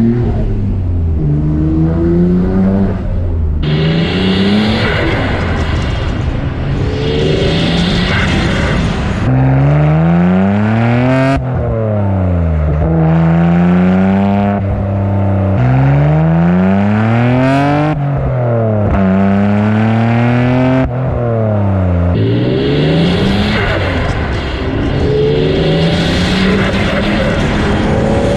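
Nissan Skyline R32 GTR's RB26DETT twin-turbo straight-six engine and exhaust, with the revs rising and falling again and again as the car is driven hard. Several long rising pulls come in the middle, and there are two sharp cracks, one partway through and one a few seconds later.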